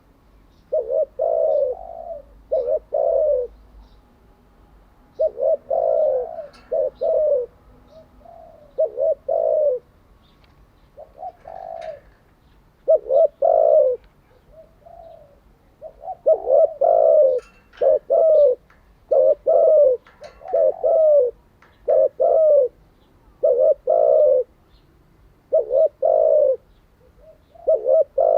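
Spotted dove cooing: phrases of two to four short coos, repeated over and over with brief pauses between them.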